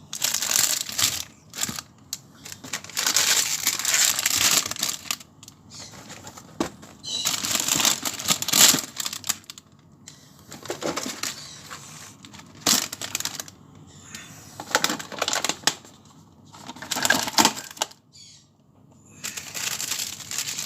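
Plastic food packaging crinkling and rustling in irregular bursts as packets are handled, with sharp clicks and knocks in between.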